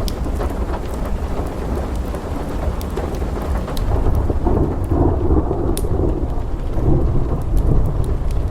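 Thunder rumbling under steady rain, growing louder about halfway through, with scattered sharp crackles from a wood fire.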